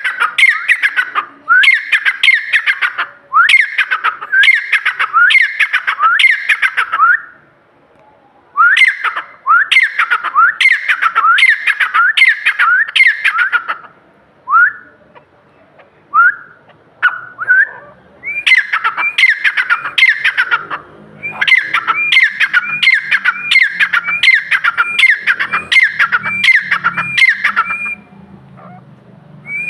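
A francolin (teetar) calling loudly: shrill notes, each swinging up and down in pitch, repeated about twice a second in long runs with short breaks.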